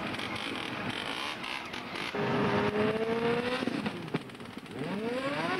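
Small motorbike engine revving hard: a rough noisy run-up, then a loud held high-rev note that climbs slightly for over a second, and near the end quick rising throttle blips.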